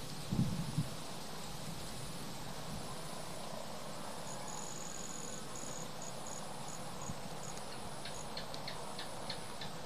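Insects chirping in short, high, repeated pulses over a steady outdoor hiss, with a few low thumps near the start.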